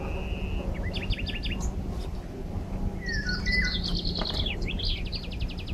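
Small songbirds chirping and singing: a quick run of short chirps about a second in, a warbling phrase around three seconds, and a fast trill near the end, over a steady low hum.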